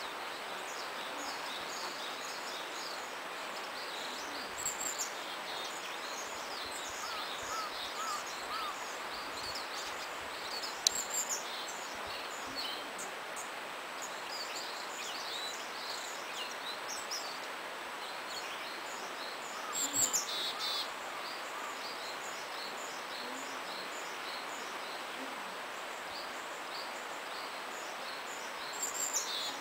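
Willow tits giving high, thin call notes scattered throughout, over the steady rush of a small stream. A few louder, closer bursts of calls come about a third of the way in, in the middle and near the end.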